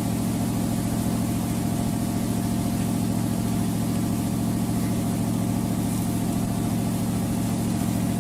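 Engine idling steadily at an even pitch.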